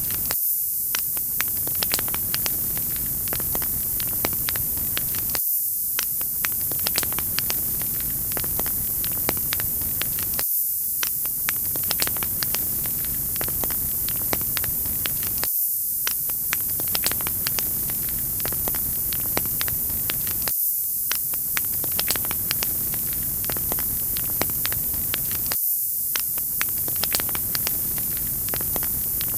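Wood fire crackling in a fireplace: a steady hiss with frequent sharp pops and snaps, in a short loop that repeats about every five seconds.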